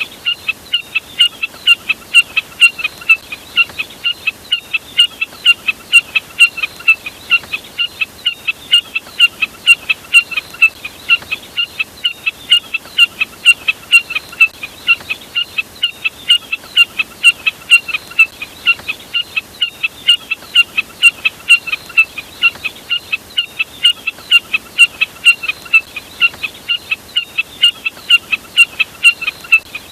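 Jack snipe (burcet) calling: an unbroken, even series of short, sharp, high notes, two or three a second.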